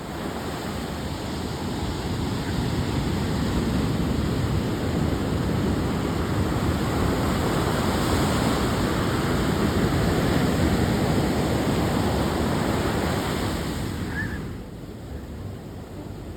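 Ocean surf breaking and washing up on a sandy beach: a steady rush of wave noise that swells towards the middle and drops away suddenly near the end.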